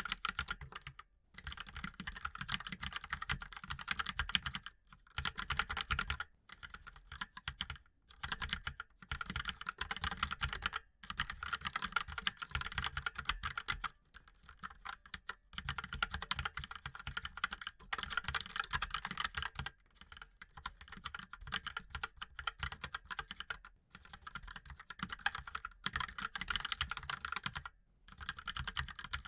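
Mechanical keyboard being typed on: fast, continuous runs of clicking keystrokes, broken by short pauses every few seconds.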